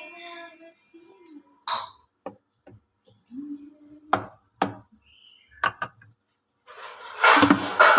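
A series of separate sharp knocks and clicks from hard objects, followed near the end by a louder, longer clatter.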